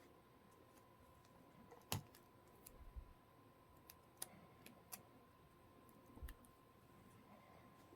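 Faint, scattered clicks and taps, a few seconds apart, over a faint steady tone.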